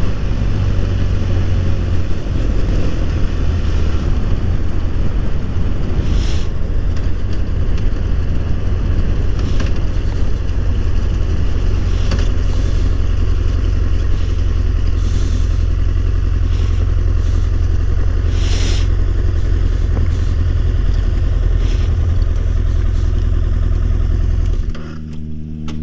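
BMW F 800 R motorcycle's parallel-twin engine running under way, with road and wind noise on the helmet or bike-mounted camera, a steady low rumble broken by a few short hissing streaks. Near the end it drops away suddenly and a different steady hum takes over.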